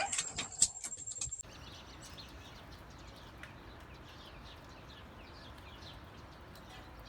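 A few clicks and knocks, then a sudden cut about a second and a half in to faint birds chirping now and then over a low hiss.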